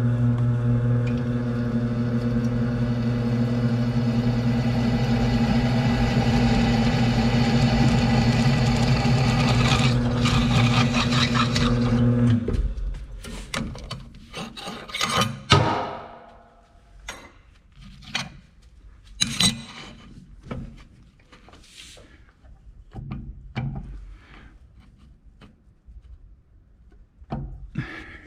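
Electric drill press running steadily with a hum, then stopping abruptly about twelve seconds in. It is followed by scattered clicks, knocks and scrapes of steel parts being handled.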